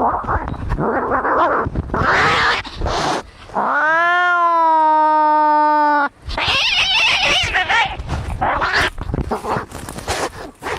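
Cats fighting: rough growls and hisses, with one long yowl about four seconds in that rises and then holds steady for about two seconds, followed by a sharp hiss and more growling.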